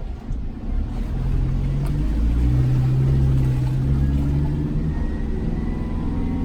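Off-road vehicle engine pulling under load, with a steady low note. It grows louder about a second in and eases off near the end.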